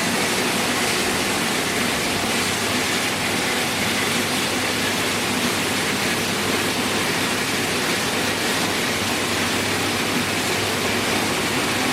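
Industrial crate washing machine running, its water jets spraying the plastic crates in a steady, even rush of water.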